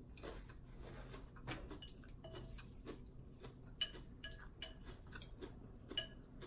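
Eating utensils clinking lightly against a bowl and dishes: scattered soft clicks, with two sharper clinks about four and six seconds in.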